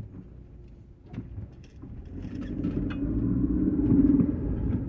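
Car engine pulling away from a standstill and accelerating, heard from inside the cabin; after a quiet first couple of seconds the engine hum builds steadily, loudest about four seconds in.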